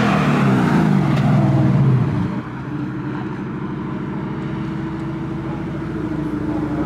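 A car's engine driving past, its pitch falling as it goes by; the sound drops away suddenly about two seconds in. After that a steadier, quieter engine note of other cars carries on.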